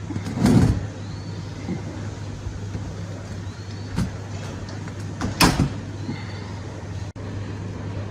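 Knocks from handling parts, a loud one about half a second in and another about five seconds later, with a smaller one between, over a steady low hum.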